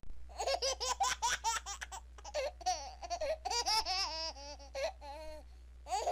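A baby laughing: a quick run of high-pitched giggles, then longer drawn-out laughs that fall in pitch.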